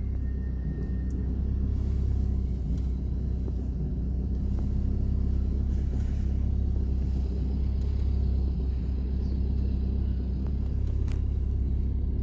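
Volvo V40 D2 diesel engine running with a steady low rumble. This is the noise from a dual-mass flywheel with a lot of play, which the mechanic takes it to be. A single sharp click comes near the end.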